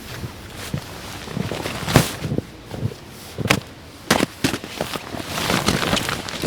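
Footsteps crunching through packed snow: irregular sharp crunches and knocks, one to three a second.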